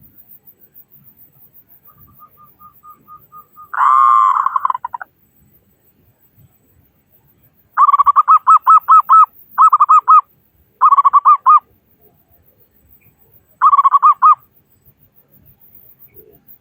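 Local zebra dove (perkutut) cooing: a run of soft, quiet notes leads into a loud rolling coo, then after a pause four more bursts of rapid rolling coo notes.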